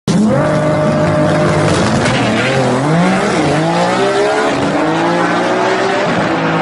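A motor vehicle engine running and revving, its pitch rising and falling repeatedly. It cuts in suddenly from silence.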